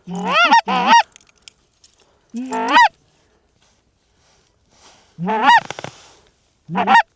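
Canada goose honks blown on a hunter's goose call, loud and close, each honk breaking from a low note up to a high one. They come in short bursts: a quick run of several at the start, then single honks a few seconds apart. This is calling to draw in approaching geese.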